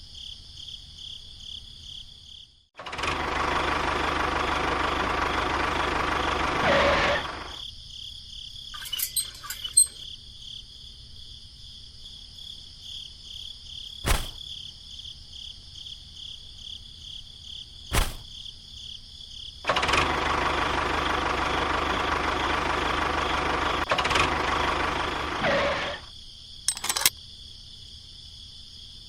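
A small motor runs twice, once for about four seconds and again for about six, starting and stopping abruptly. Steady insect chirring goes on underneath, with a few sharp clicks between the runs.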